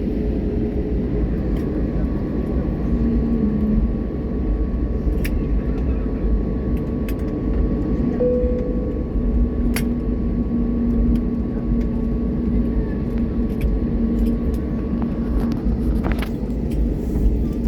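Cabin noise of an IndiGo airliner on the ground after landing: a steady low rumble with a humming drone and a thin steady tone, broken by scattered small clicks.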